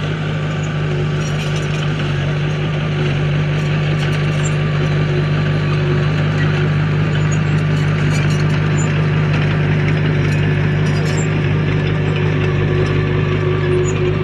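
Heavy earthmoving machine's diesel engine running steadily at a constant pitch, with faint scattered clicks over it.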